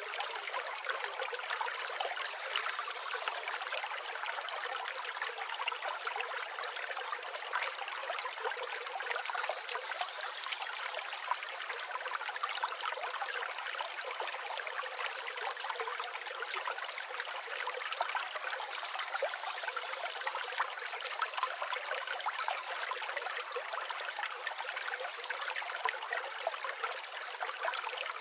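River water flowing steadily, a bright rushing with no deep rumble. A few faint, short, high bird calls come through about a third of the way in and again past two-thirds.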